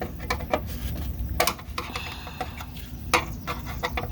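Metal mounting clips and hardware for running boards clinking and tapping as they are handled and pushed into place, a run of sharp clicks with two louder knocks about a second and a half and three seconds in.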